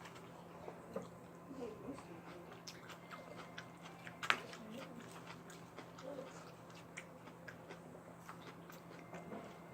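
Close-up eating sounds of fried chicken being bitten and chewed, with irregular wet clicks and crunches. The sharpest crunch comes about four seconds in.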